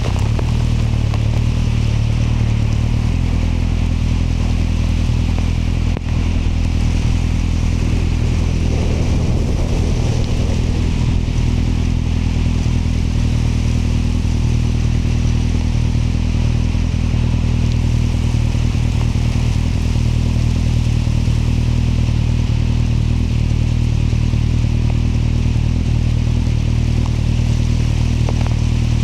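Kawasaki motorcycle engine running at a steady cruising speed, a low rumble with a steady hiss of riding noise over it.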